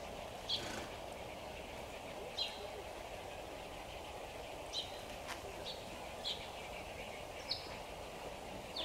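Small bird chirping, short high calls every second or two, over a steady low background noise.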